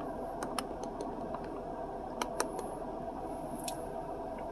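A few light, sharp clicks and taps, mostly in close pairs, over a steady low room hum: takeout food packaging being handled.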